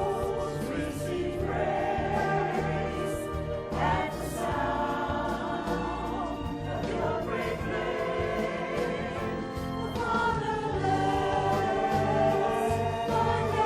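Choir singing gospel-style church music with instrumental accompaniment over a steady bass line.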